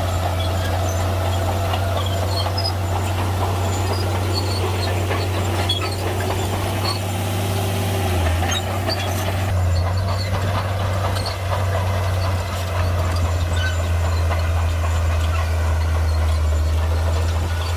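Shantui bulldozer's heavy diesel engine running under work with a steady low drone that deepens slightly about two-thirds of the way through.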